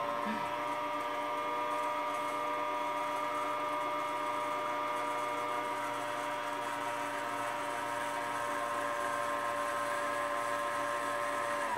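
Sewing machine motor running at a steady high whine while winding a bobbin, then spinning down and stopping near the end as the bobbin is done.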